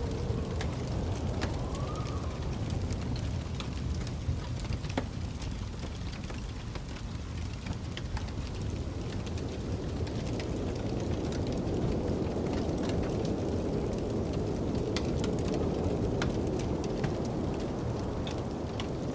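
Wood fire crackling with many short, sharp pops, over the steady low rumble of snowstorm wind. A brief whistle of wind rises and falls about two seconds in, and the wind swells past the middle.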